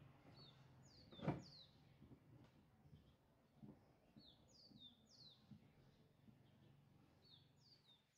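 Faint bird chirping: short, quick falling chirps repeated in small groups. A single soft knock about a second in, likely from the clamps and plywood being handled.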